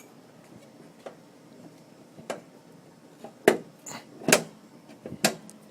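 Metal clunks from a pickup truck's hood latch and hood being worked open: about five separate knocks, the loudest two past the middle. The hood is difficult to open.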